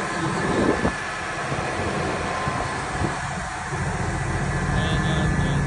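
Heavy vehicle engine running on a snow-covered road, its low note growing louder from about four seconds in.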